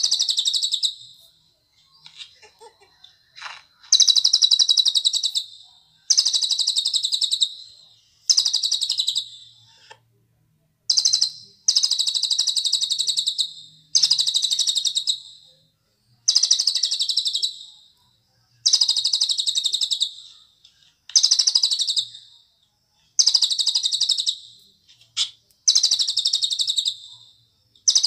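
A cililin songbird singing the same phrase over and over. Each phrase is a fast, buzzy trill lasting about one and a half seconds, pitched high and easing down a little, and the phrases come about every two seconds with short pauses between them.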